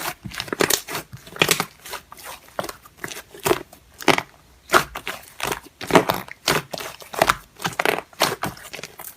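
Slime being squeezed and pressed by hand, giving a run of irregular crackling and popping sounds.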